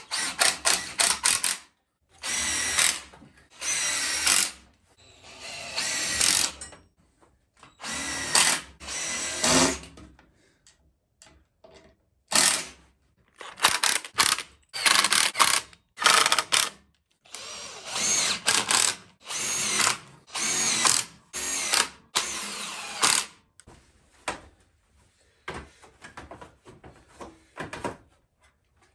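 Power drill running in many short bursts, each about half a second to two seconds long with brief pauses between, its motor pitch wavering within each burst.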